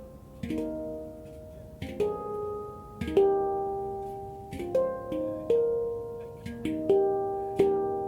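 F minor handpan (Oasis Sound Sculpture) played by hand: single struck notes and small clusters ring out with long, sustained decays, overlapping one another.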